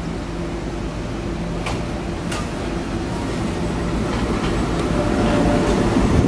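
Taiwan Railways electric multiple-unit train rolling along the platform past close by. A steady motor hum sits under wheel-and-rail rumble that gets louder as it draws level, with a couple of sharp clacks about two seconds in.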